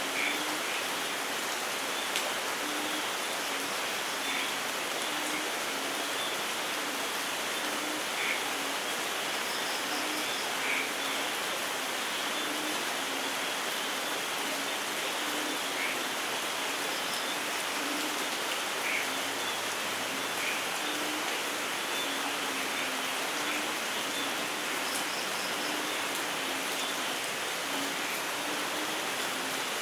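Steady rainfall in a rainforest, with scattered louder drops. A low, short note repeats over and over beneath it, like frogs calling.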